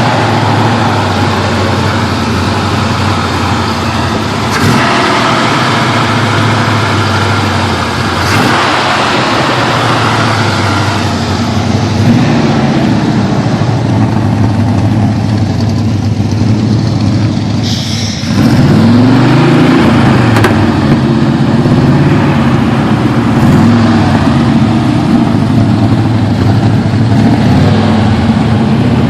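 1968 GMC pickup's rebuilt 327 small-block V8 with 350 heads, running just after a cold start and held off idle on the throttle because it won't idle well cold. A little past halfway it is revved up and down a few times and runs louder from then on.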